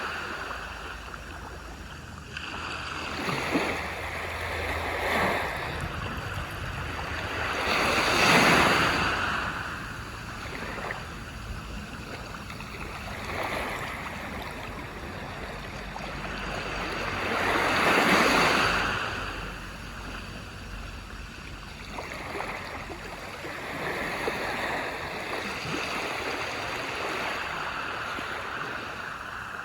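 Ocean waves washing onto a beach, the surf rising and falling in slow swells; the two loudest waves break about eight and eighteen seconds in.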